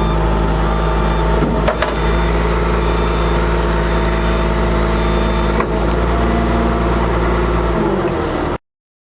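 Caterpillar C7 diesel engine of a Ford F750 bucket truck running steadily, with a faint high beep repeating at a regular pace and a couple of sharp clicks. The sound cuts off abruptly near the end.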